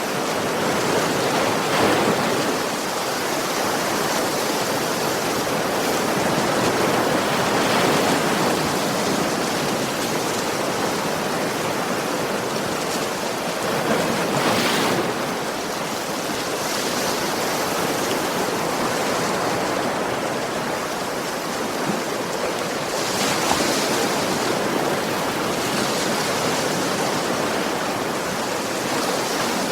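Sea waves washing onto a beach: continuous surf noise that swells louder every several seconds as waves break.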